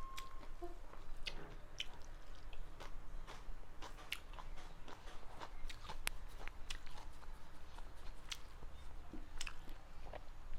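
Close-miked mukbang eating: a person chewing and biting a meal of rice and mutton curry, with many short, irregular wet clicks and smacks.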